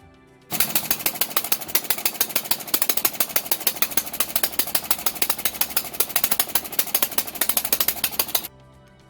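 Rapid, even mechanical clattering, loud and dense, that cuts in abruptly about half a second in and stops just as abruptly near the end, over quiet background music.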